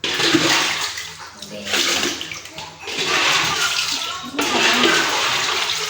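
Floodwater being scooped off the floor and poured into a bucket: about four splashing pours, each a second or so long.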